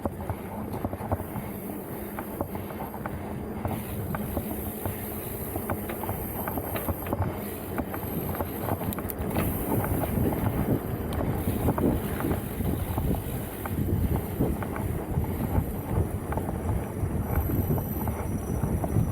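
Mountain bike riding over rough trail: tyres rumbling on dirt and roots, with constant rattling and clicking from the bike, and wind on the microphone.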